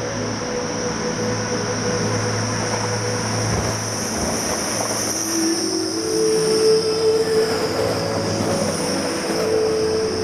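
A train moving through the station, its wheels giving a steady high-pitched squeal over a low running hum. About halfway through, a pair of lower, steady engine tones comes in.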